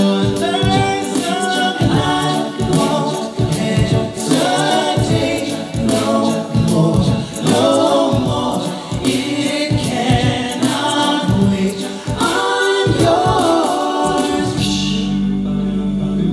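A cappella vocal group singing in close harmony, several voices together with sharp percussive hits throughout; near the end the singing stops and a held chord remains.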